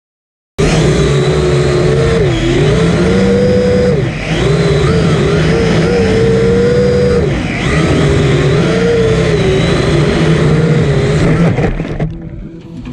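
R'Bird Blackmaster DMS240 quadcopter's motors and propellers buzzing loudly in flight. Several close pitches dip and rise together as the throttle changes. The sound starts abruptly about half a second in and drops away sharply near the end.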